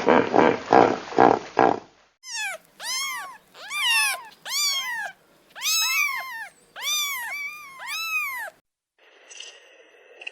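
Rough, noisy pulsing sounds for about two seconds, then a quick string of about a dozen high-pitched cat meows, each rising and falling in pitch, typical of kittens.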